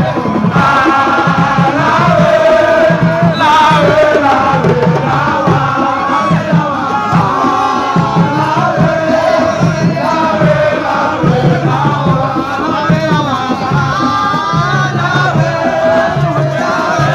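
A crowd of supporters singing and chanting together over steady drumming.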